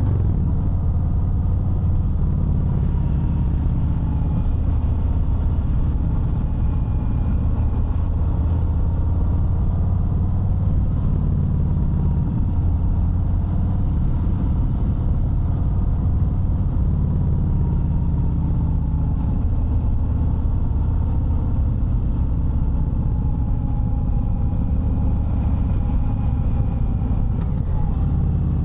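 Harley-Davidson Fat Bob 114's Milwaukee-Eight 114 V-twin engine running steadily under way, a low, even engine note with only slight changes in pitch.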